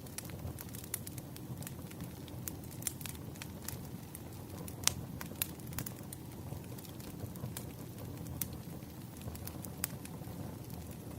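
Wood fire in a fireplace crackling: a steady low rumble of flames with irregular sharp pops and snaps, the loudest pop a little before five seconds in.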